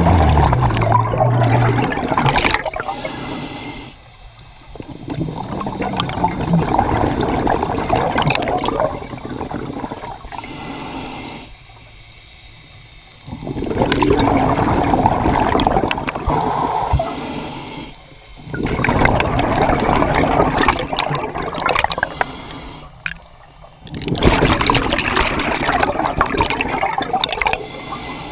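Scuba diver breathing through a regulator underwater, exhaled bubbles gurgling out in about five long bursts with short quieter pauses between breaths.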